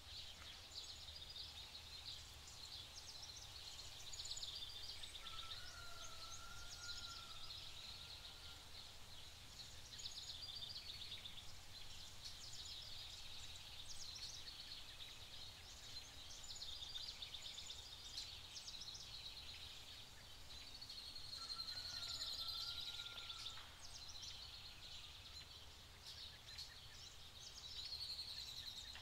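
Faint outdoor ambience of birds singing: a steady high chatter of calls, with a short warbled phrase about six seconds in and the same phrase again about 22 seconds in.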